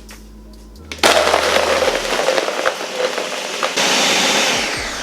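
Countertop blender switched on about a second in, grinding through ice and frozen avocado for a thick smoothie with a crackly, rattling sound. Near the end it turns smoother and then winds down with a falling whine.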